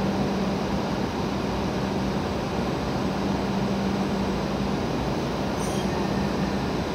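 Steady hum and whir of standing W7 and E7 series Hokuriku Shinkansen trains idling at the platform, with a low tone that drops out for a couple of seconds near the start and returns.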